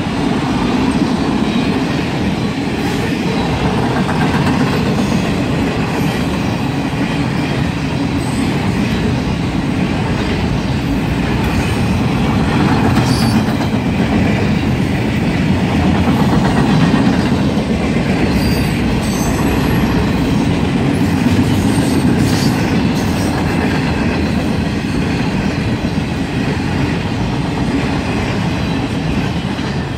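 Ringling Bros. and Barnum & Bailey circus train rolling past close by: stainless passenger cars and then flatcars loaded with trailers, a steady loud rumble of wheels on the rails.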